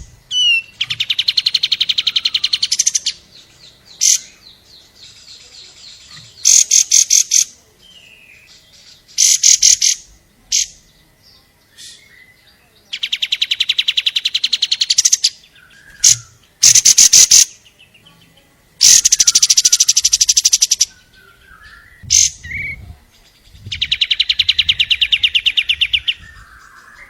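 Long-tailed shrike (cendet) singing a loud series of rapid rattling trills, several lasting about two seconds, with short sharp calls between them.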